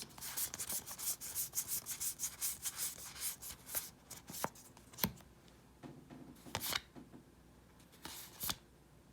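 Magic: The Gathering cards sliding against one another as a booster pack is thumbed through: a quick run of rubbing swishes, about five a second, for the first three seconds or so, then a handful of single card flicks.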